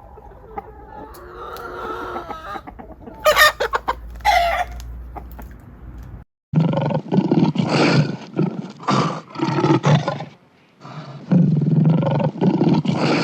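Animal calls: a pitched, drawn-out call with two loud sharp outbursts, then an abrupt cut to a series of loud, deep calls repeated in runs.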